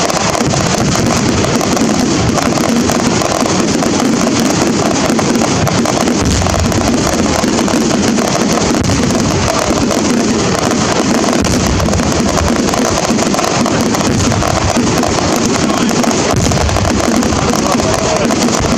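Fireworks display at full barrage: dense, continuous crackling and popping with no pause.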